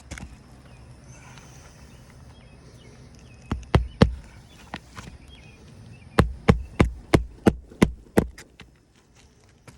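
Hammer driving roofing nails through asphalt shingles into the roof deck: three quick blows, a pause, then a run of seven blows about three a second.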